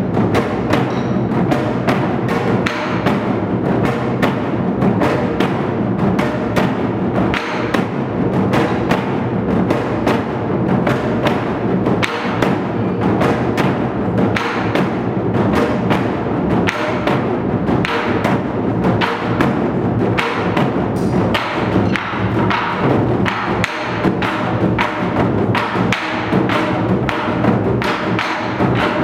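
Ensemble of Korean moduk-buk barrel drums struck with sticks in fast, continuous rhythmic strokes, with sharp clacks mixed in among the deep drum beats.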